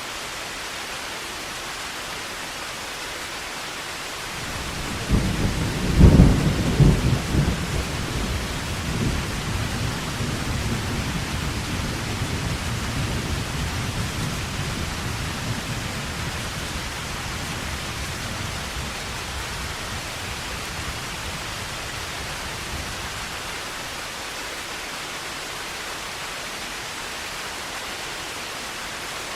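Heavy rain falling steadily, with a thunderclap about five seconds in that cracks and then rolls as a long deep rumble, fading out over the next fifteen seconds or so.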